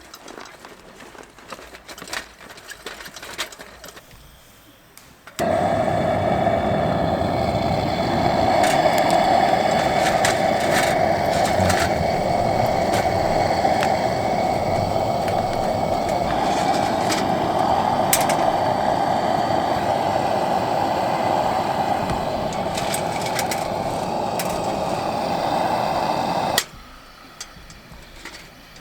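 A small motor running steadily for about twenty seconds, switching on abruptly about five seconds in and cutting off sharply near the end.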